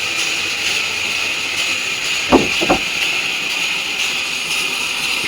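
Steady hiss, with two short pitched sounds a little after two seconds in.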